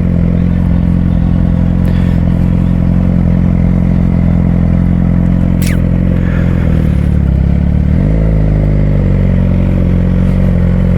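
Suzuki GSX-R600's inline-four engine running at low, steady revs. The revs dip briefly about seven seconds in and pick back up around eight seconds.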